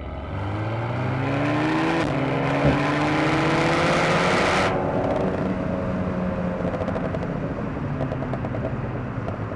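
Alpine A110's 1.8-litre turbocharged four-cylinder engine and exhaust under hard acceleration, rising in pitch, with a quick upshift of the seven-speed dual-clutch gearbox about two seconds in. Near five seconds the throttle is lifted: the louder rasp cuts off and the engine settles to a steadier, slowly falling run.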